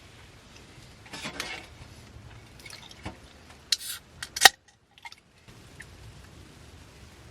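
A few sharp clinks and rattles of metal tableware or cookware, with a short rustle about a second in and the loudest clink about four and a half seconds in, followed by a second of dead silence.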